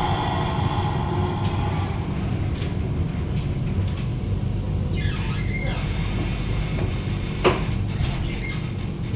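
Inside a Flexity tram: a steady low rumble of the running car, with brief faint squeaks around the middle and one sharp click near the end.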